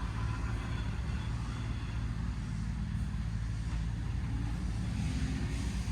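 Vehicle engine idling steadily: a low, even hum with no change in speed.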